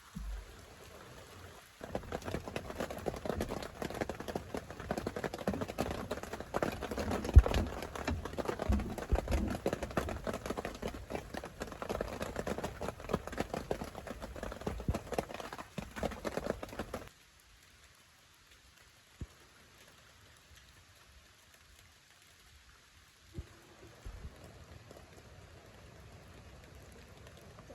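Rain pattering on a surface, a dense spatter of many small drop hits. It stops abruptly about two-thirds of the way through, leaving only a faint patter.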